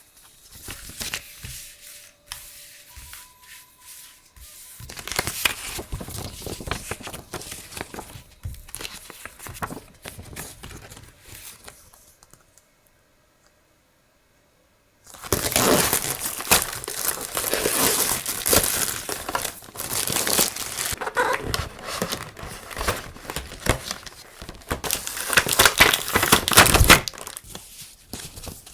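Crinkly packaging and paper rustling and crackling as stationery is unwrapped and handled. It breaks off into a short silence about halfway through, then resumes louder and denser.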